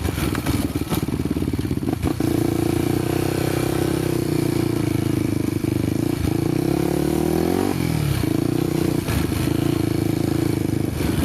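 Honda motorcycle engine running on a dirt trail, with the revs climbing from about six seconds in and dropping back sharply near eight seconds, plus a few knocks and clatters.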